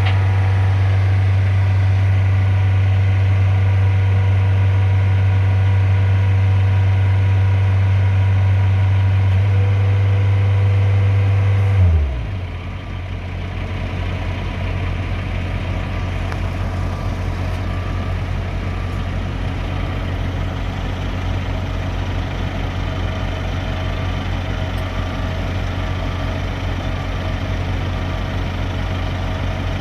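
Side-loader truck's diesel engine running steadily at raised revs, then dropping in pitch and level to a lower idle about twelve seconds in and idling steadily after.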